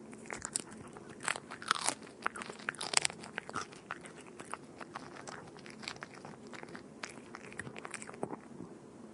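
A cat eating, its chewing heard as irregular quick clicks that come thickest between about one and three and a half seconds in.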